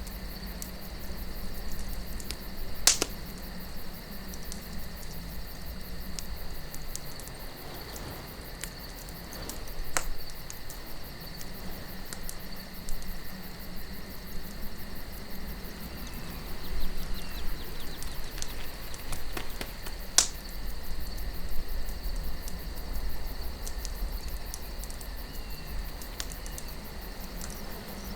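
Wood campfire crackling with small ticks and a few louder sharp pops, about 3, 10 and 20 seconds in, over a low wind rumble that swells near the end. A steady high chirring runs underneath.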